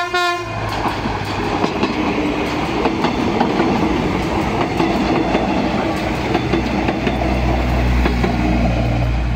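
PNR diesel train horn sounding and cutting off about half a second in, then the train running past: wheels clattering over the rail joints over a steady low engine rumble, which grows heavier near the end.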